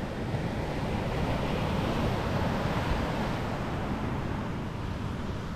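Ocean surf washing on a beach, a steady rush of waves, with wind buffeting the microphone as a low rumble.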